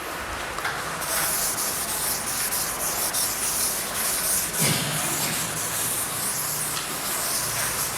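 Scratchy rubbing of writing strokes on a board or paper: an uneven hiss that starts about a second in and swells and fades with each stroke.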